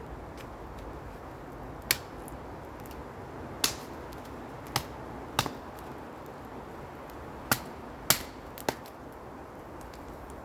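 A machete chopping aspen firewood: about seven sharp, separate strikes at uneven intervals.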